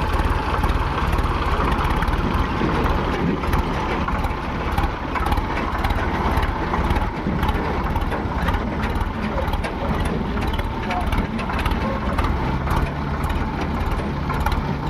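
Heavy diesel machinery engine running steadily, with voices faintly in the background.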